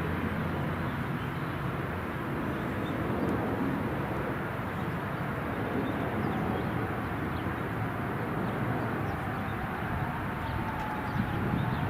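Airplane engines rumbling in flight, with a faint engine whine wavering up and down in the second half.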